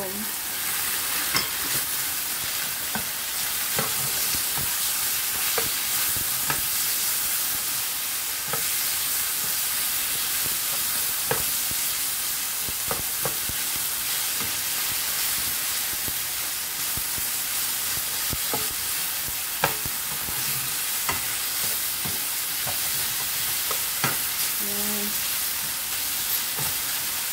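Minced pork and beech mushrooms sizzling in a frying pan, with a spatula scraping and clicking against the pan as they are stirred. There is a steady sizzle, with short clicks from the spatula every second or so.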